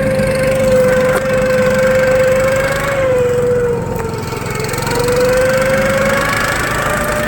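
Motorized snow tow engine running under light throttle over rough ground. Its pitch dips about three seconds in and climbs back about five seconds in.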